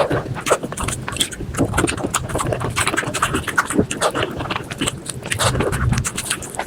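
Close-miked chewing and crunching of chicken skin and rice, played back at five times normal speed: a fast, dense jumble of crunches, smacks and mouth clicks.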